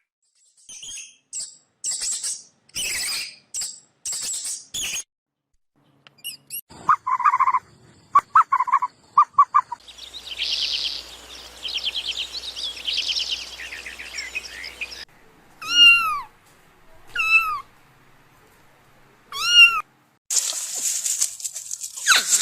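A string of different short animal calls and cries. Among them are quick chirps, a rapid pulsing call, and three separate falling calls in the second half.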